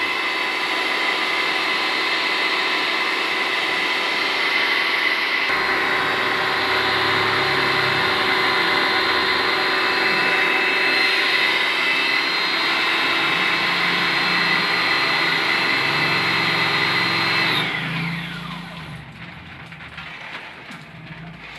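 Electric pressure washer motor and pump running steadily with a high whine while the AC unit is rinsed, then switched off near the end, its pitch falling as it spins down.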